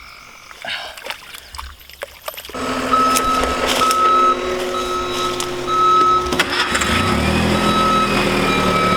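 A vehicle's engine starts running suddenly about two and a half seconds in, with a reversing alarm beeping at a steady pace over it. The engine revs up near the end as the vehicle moves back to take up the tow line.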